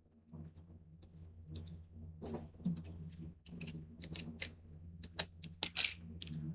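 Paper and tape being handled on a craft table: an irregular run of crinkles, taps and clicks over a low steady hum.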